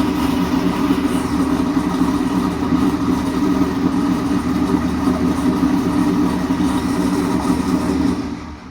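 1998 Pontiac Trans Am's LS1 V8, fitted with a TSP 228R camshaft, ceramic-coated headers and an IMCO exhaust, idling steadily through the exhaust. The sound fades out near the end.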